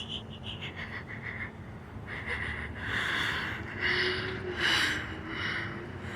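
A person breathing or sniffing close to the microphone: a string of short hissy puffs, each about half a second, mostly in the latter half.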